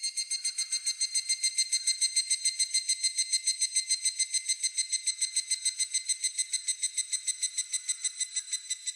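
A higurashi (evening cicada) calling: a rapid, even train of ringing, whistle-like pulses, about seven a second, which holds steady and stops near the end.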